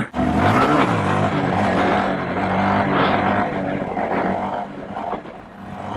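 Small mini bike engines running while riding, their pitch rising and falling with the throttle. A sharp knock right at the start.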